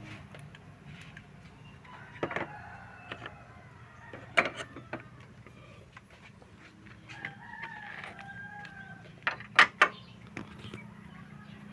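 A rooster crowing twice, each call lasting about a second, over a low steady hum. Several sharp clicks and knocks are mixed in; the loudest are a quick run of three near the end.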